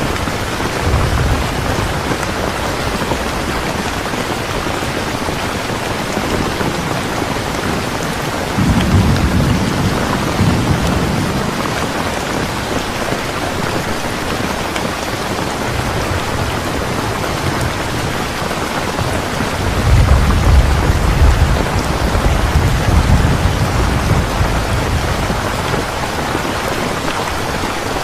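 Steady heavy rain with low rolling thunder that swells in three spells: briefly about a second in, around the middle of the first half, and most strongly just past two-thirds of the way through.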